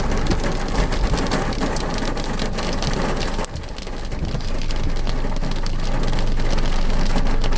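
Heavy rain pattering on a car's roof and glass, heard from inside the cabin, with many separate drops ticking. The rain briefly dips about three and a half seconds in, then builds back up.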